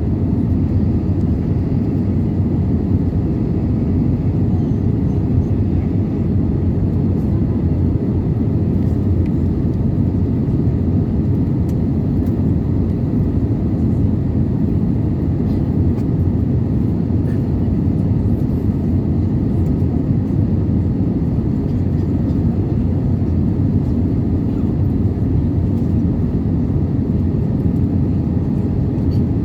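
Steady cabin drone of an Airbus A320-214 in flight, heard from a window seat: its CFM56 engines and the rushing airflow make an even low rumble that holds the same level throughout.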